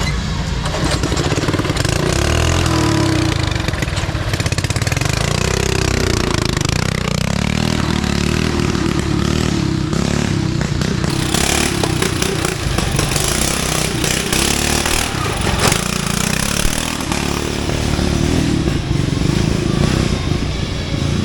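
Racing riding-mower engines running and revving, their pitch rising and falling as the throttle changes, with a burst of hiss about eleven seconds in that lasts a few seconds.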